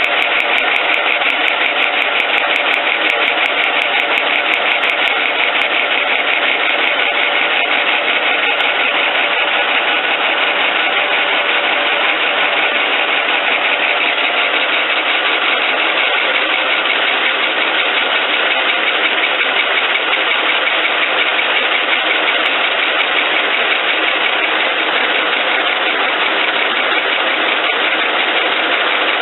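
Stanko 1K62 engine lathe running steadily, its geared headstock and motor making a dense, even mechanical drone with several steady tones.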